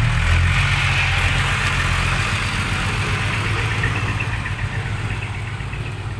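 Six-wheel dump truck's diesel engine running at low revs, loudest at first and slowly fading as it moves off.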